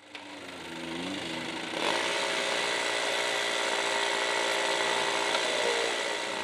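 Yamaha R15's single-cylinder four-stroke engine running with a steady mechanical whine. It fades in over the first second with shifting pitch, then jumps louder a little under two seconds in and holds steady.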